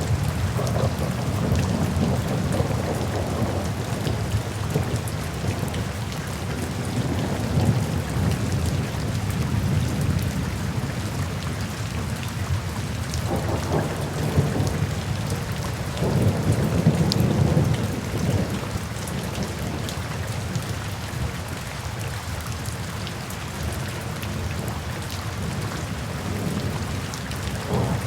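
Rain falling steadily in a thunderstorm, with low rolls of thunder swelling several times; the longest is a little past halfway.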